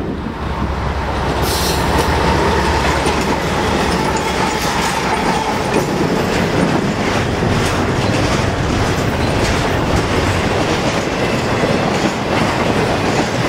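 Diesel locomotives of a freight train running close by, followed by double-stack container well cars rolling past with a steady rumble and rhythmic clickety-clack of wheels over the rail joints.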